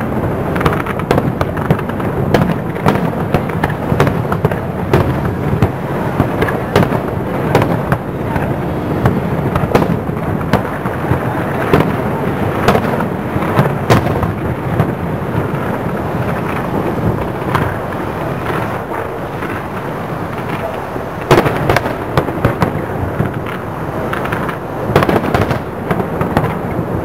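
Aerial fireworks shells bursting one after another in a near-continuous string of bangs, the loudest one a little over two-thirds of the way through.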